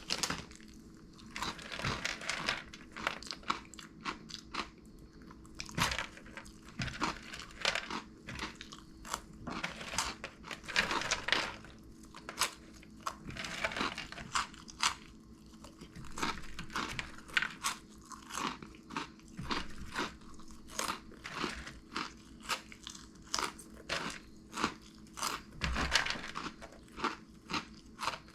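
Close-up crunching and chewing of crunchy Cheetos corn puffs, in repeated bursts of crisp crunches.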